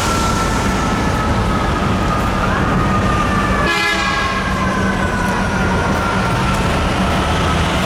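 Fire truck siren sounding its wail, slowly falling in pitch with a rise partway through, over the truck's engine. A short horn blast comes just past the middle.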